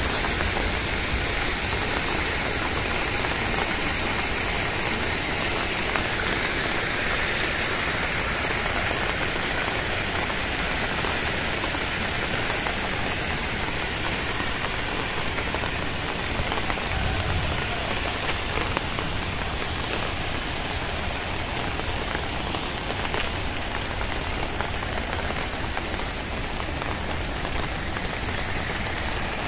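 Very heavy rain falling steadily, a dense even hiss of rain with drops spattering on surfaces.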